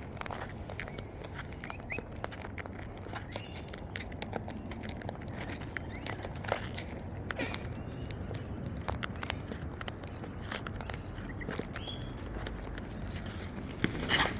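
Wild birds feeding: a steady scatter of small clicks and crunches from beaks working at food, with a few short chirps and a louder short sound near the end.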